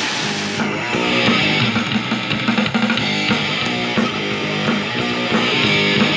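A rock band recording with guitar playing through a pair of HYANKA 6.5-inch marine speakers, with a steady beat.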